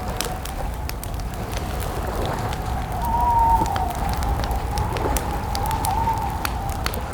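Campfire crackling, with sharp irregular pops over a steady low rumble. A wavering whistle-like tone runs throughout and grows louder about three seconds in.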